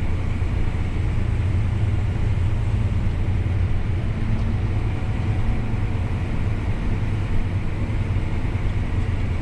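Farm tractor running steadily at a low ground speed of about 4 miles an hour, a constant low engine rumble heard from inside the cab.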